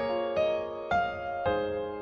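Background music: a soft piano or electric piano playing slow, sustained notes, a new note or chord about every half second.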